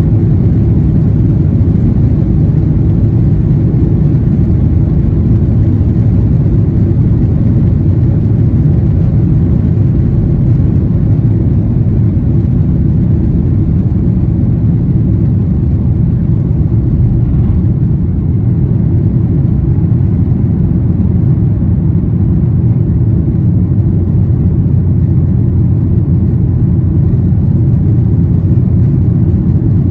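Cabin noise inside a Boeing 737-800: a loud, steady, low rumble from its CFM56-7B turbofans at high thrust just after takeoff.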